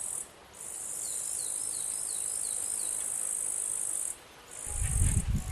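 A singing insect's high-pitched continuous buzz that breaks off briefly twice, with faint short falling chirps repeating beneath it. Near the end comes a loud low rumble.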